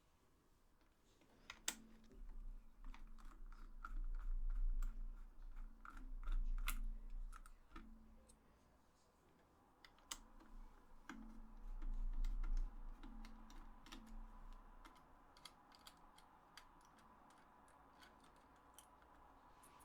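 Scattered small plastic clicks and taps, with dull low bumps of handling, as a PS4 DualShock 4 controller is worked on and taken apart by hand.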